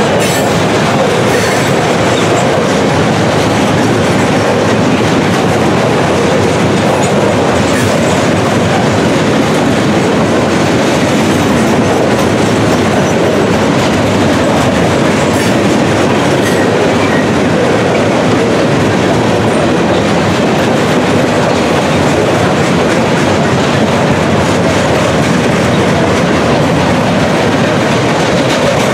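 Freight cars loaded with steel coils rolling past close by: a loud, steady rolling noise of steel wheels on the rails.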